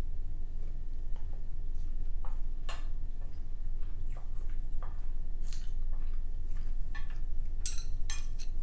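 Close-miked eating sounds: scattered soft, wet mouth clicks and chewing over a steady low hum, with a quick cluster of sharper clicks a little before the end.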